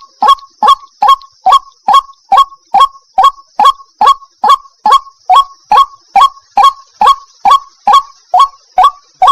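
White-breasted waterhen calling: a monotonous run of short, harsh notes repeated at an even pace of about two to three a second, each falling slightly in pitch. A steady high hiss runs underneath.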